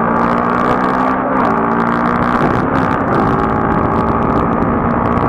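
Motorcycle engine running at road speed, with a steady rush of wind and road noise; the engine note shifts pitch about a second and a half in and again about three seconds in.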